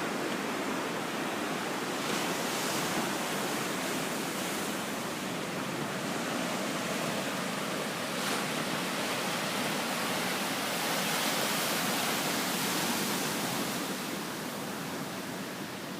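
Sea surf washing onto a beach: a steady rush of waves that swells a little past the middle and eases near the end.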